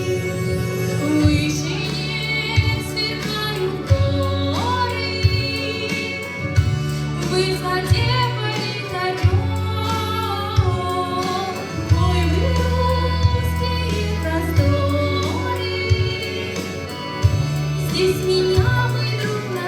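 Female voices singing a song in Russian over an instrumental accompaniment with long held bass notes.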